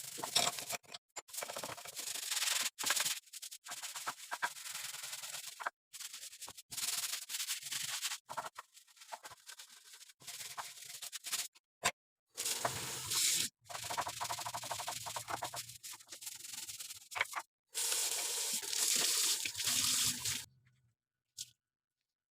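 Quick repeated rubbing and scraping strokes of kitchen work, in several stretches that stop abruptly between them.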